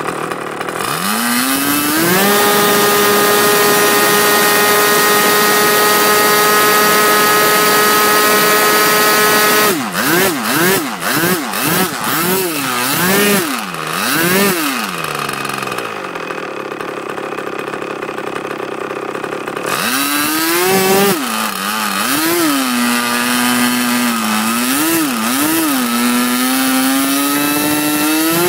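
Moki 61 LS two-stroke glow engine with a Jett muffler on its rear exhaust, swinging an APC 11x9 propeller on 0% nitro fuel. It climbs to a steady high-pitched full-throttle run, is throttled up and down several times, then drops to a low idle. It is blipped again and climbs back to high revs near the end, idling and picking up cleanly.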